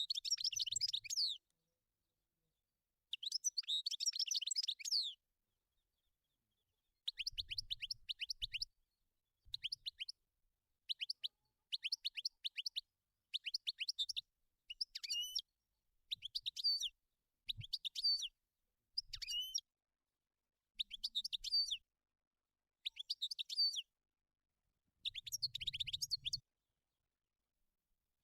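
European goldfinch singing: a dozen or so short phrases of fast, high twittering and liquid notes, separated by brief pauses.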